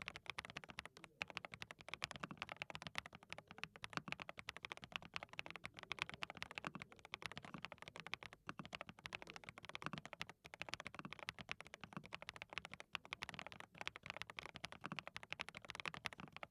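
Rapid, continuous typing on a DT35 87-key custom keyboard fitted with hand-lubricated SWK Cheddar linear switches: a dense patter of keystrokes with a few brief pauses.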